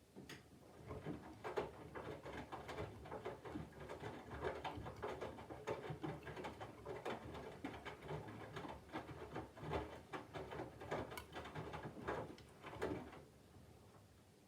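Candy GVF4 front-loading washing machine's drum turning slowly during the load-weighing phase, the tumbling laundry and drum giving an irregular patter of soft knocks and clicks. It starts at once and stops suddenly about 13 seconds in, a pause between drum turns.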